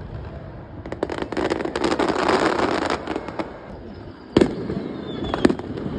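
Aerial fireworks: a dense run of rapid crackling for about two seconds, then a sharp loud bang a little past the middle and another about a second later.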